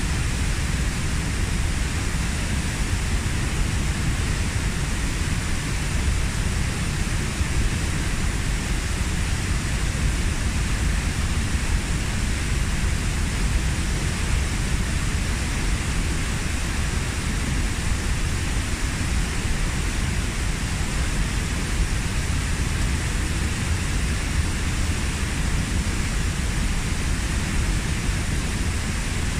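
Waterfall: the steady rush of water falling about 15 m into a pool, an even noise with no changes.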